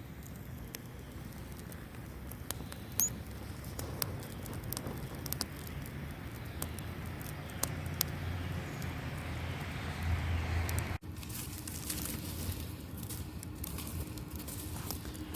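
Open wood campfire crackling, with scattered sharp pops over a steady hiss. About eleven seconds in the sound cuts abruptly, and a low steady hum joins the crackle.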